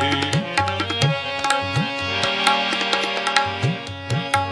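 Instrumental break in Sikh kirtan: tabla playing a steady rhythm, its bass drum strokes sliding up in pitch, over held harmonium notes.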